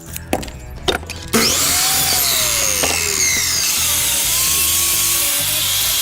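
Two knocks, then from about a second in a power tool running steadily and cutting, over background music.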